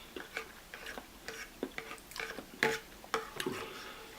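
Close-up chewing of spicy noodles with the mouth open: a string of short, wet smacking clicks at an uneven pace.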